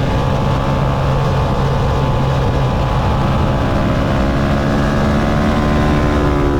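Motorcycle engine running under way, its note steady at first and then climbing in pitch over the last couple of seconds as it accelerates.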